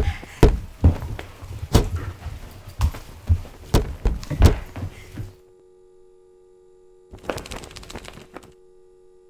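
A rapid, irregular series of loud knocks and thuds, about two to three a second, that stops suddenly a little past halfway, leaving a faint steady electrical hum with a short rush of noise near the end.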